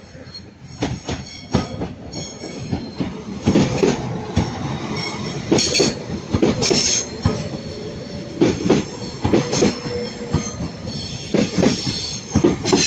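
Train wheels squealing on the rails with irregular metallic clanks over the track as a train moves slowly through the station.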